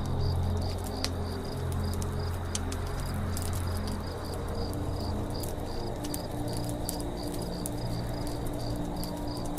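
Campfire crackling with scattered sharp pops, over crickets chirping in an even pulse about three times a second. A low steady drone runs underneath.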